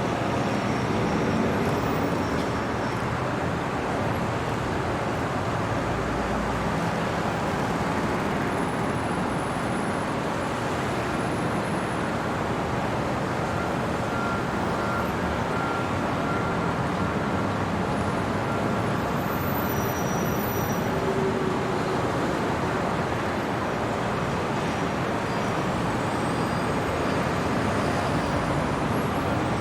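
Steady city traffic noise: an even, unbroken wash of distant road traffic with no single vehicle standing out, and a few faint high tones coming and going.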